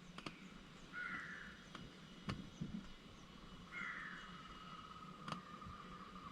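Faint bird calls, two short ones a few seconds apart with another starting at the end, over quiet background with a couple of soft clicks.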